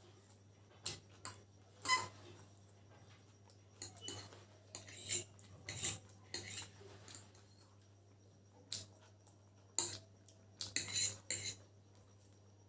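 Eating sounds from a plate of chicken chowmein: scattered clinks of cutlery against the plate, with bursts of handling and eating noise in two clusters, mid-way and near the end.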